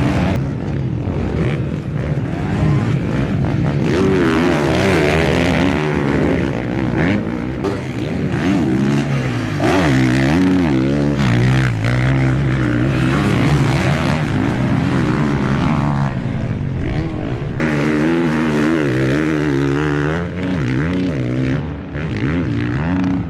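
450cc four-stroke motocross bike engines revving hard and dropping back again and again, the pitch rising and falling as they accelerate and change gear, with a few abrupt jumps in the sound.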